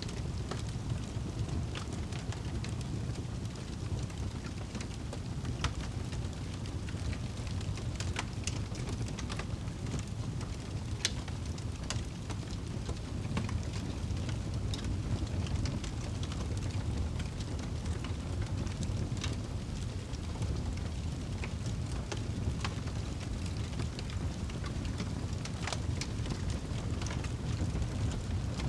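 Wood fire crackling in a fireplace, with irregular sharp pops and snaps, roughly one every second, over a steady low rumble.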